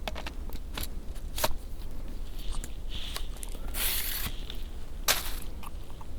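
Irregular sharp crackles and crunches, with a longer rustling crunch about four seconds in and a steady low rumble underneath.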